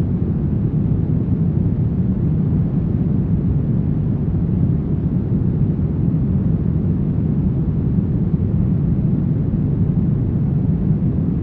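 Brown noise: a steady, deep hiss with most of its energy in the low end and little above a few kilohertz, unchanging throughout.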